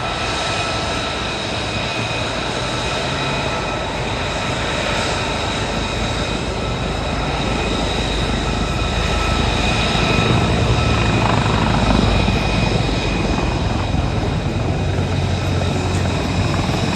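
Large military heavy-lift helicopter flying a display: steady rotor and turbine noise with a high whine running through it. The low rotor sound swells about ten seconds in as it grows loudest, then eases.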